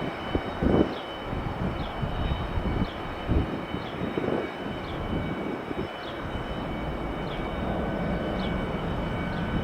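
Jet engines of a departing Boeing 737-700 climbing out after takeoff: a continuous rushing drone with faint steady high whine tones, uneven in the first half and steadier in the second.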